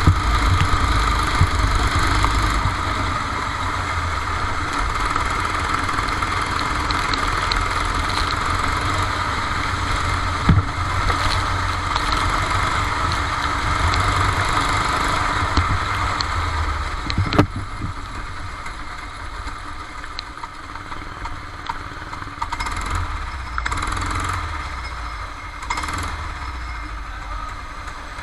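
Go-kart engine running, heard from on board, with two sharp knocks about ten and seventeen seconds in. The engine grows quieter over the last third, settling toward idle.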